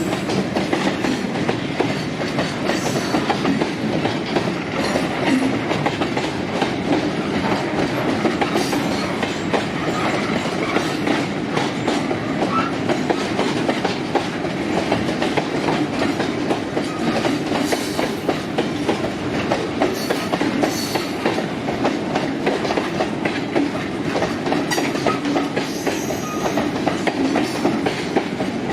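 Freight wagons of a long freight train rolling past, a steady clatter of steel wheels over the rail joints.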